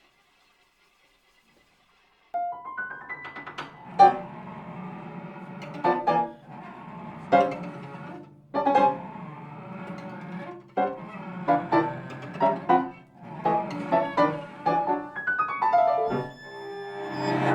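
Piano trio of piano, violin and cello playing contemporary chamber music. After about two seconds of silence the piano enters with a quick rising run, then loud struck chords every second or two over held low notes; another rising run near the end leads into sustained string notes.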